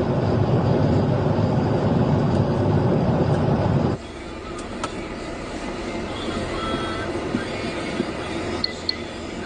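Road, wind and engine noise of a police car in a high-speed pursuit, loud and steady, dropping suddenly to a quieter level about four seconds in.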